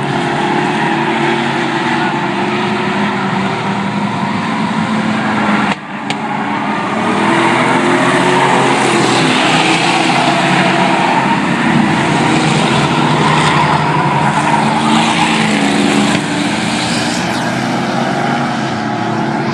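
Engines of several classic trucks running hard as they race around a track. The sound cuts out for a moment about six seconds in, then grows louder for about ten seconds as the trucks come closer.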